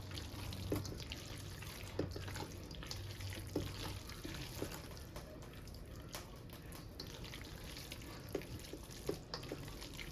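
Spoon scraping and stirring potato salad in a bowl: faint, irregular wet squelches and small clicks.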